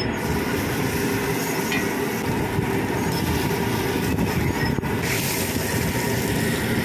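Prawn fry sizzling on a large flat iron tawa: a steady hiss over a low rumble.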